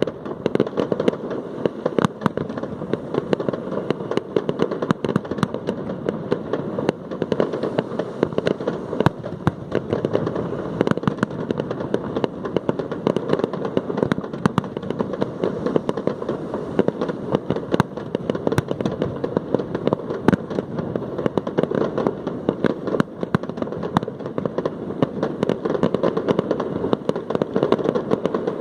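Aerial fireworks display: a dense, continuous barrage of crackling and sharp bangs with no pause.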